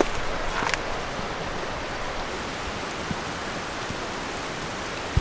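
Steady rain falling, with a few scattered drop taps.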